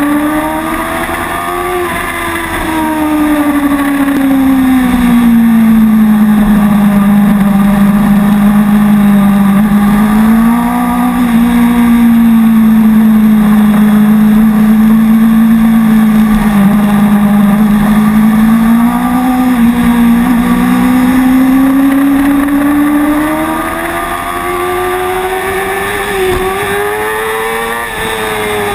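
Sport motorcycle engine running at speed, recorded by a camera mounted on the bike. Its pitch falls a few seconds in, holds fairly steady through the middle, then climbs over the last several seconds as the rider accelerates.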